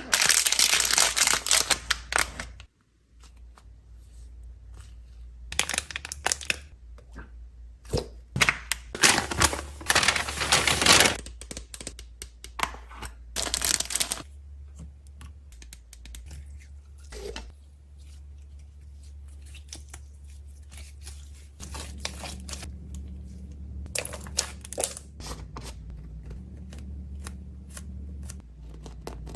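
Packing fidget toys and snacks: plastic wrappers and packaging crinkling and tearing in several loud bursts over the first half, then scattered short clicks and taps at a lower level.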